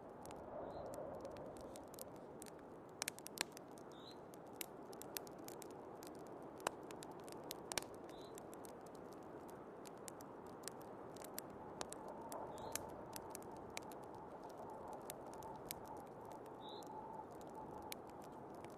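Wood fire crackling with scattered sharp pops over a steady rush of storm wind.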